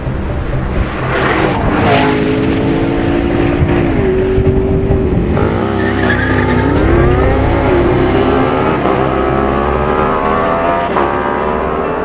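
Supercar engine running hard. Its pitch drops about two and four seconds in, dips and swings back up around six seconds in, then climbs steadily to the end.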